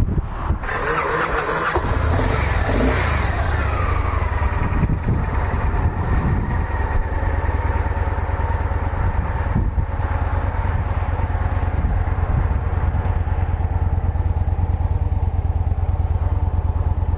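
A 2008 Victory Vision's 1,634 cc air-cooled V-twin is cranked on the starter and catches about two seconds in. Its revs drop back over the next couple of seconds and it settles into a steady idle.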